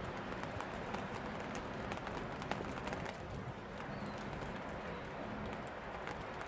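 Steady rainfall with many sharp drip taps, thickest a couple of seconds in.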